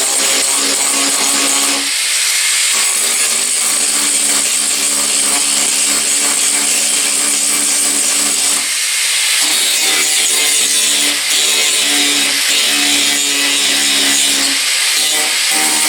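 Handheld abrasive power tool running against the Chevy K10's sheet-metal and filler bodywork: a steady motor tone under a loud, hissing grind, with three brief dips as the tool is eased off.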